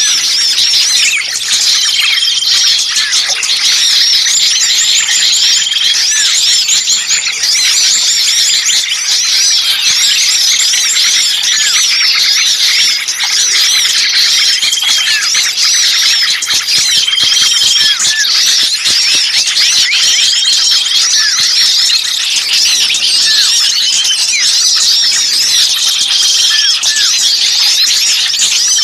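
A dense, noisy chatter of many small songbirds calling at once: agitated, distressed-sounding calls of the kind played as a lure to draw small birds in. Rapid high chirps overlap without a break, and a short, flat, held whistle recurs several times.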